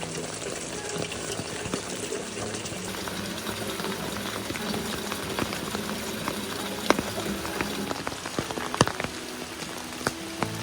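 Steady patter of rain under soft background music, with a few sharp clicks, the loudest about seven and nine seconds in.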